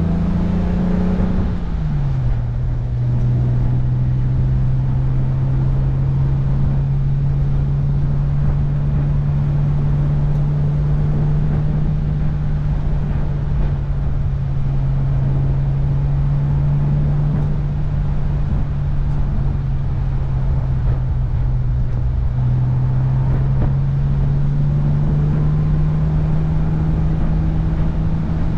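1966 Jaguar E-Type Series I's 4.2-litre straight-six engine running under way, heard from inside the open cockpit with wind rushing past. The engine note drops about two seconds in, holds steady at cruise, then climbs gradually near the end as the car speeds up.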